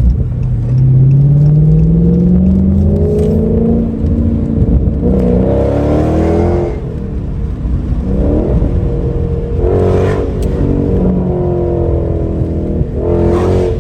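Dodge SRT V8 muscle car accelerating hard, the engine and exhaust note rising in pitch over the first few seconds, then revving up again several more times as it pulls through the gears.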